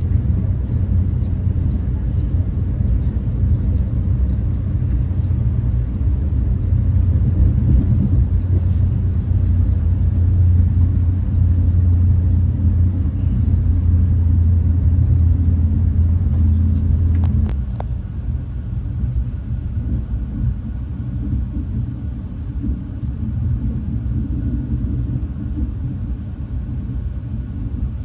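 Renfe class 130 (Talgo 250) high-speed train running at speed: a steady low rumble. A brief click comes about seventeen seconds in, after which the rumble is somewhat quieter.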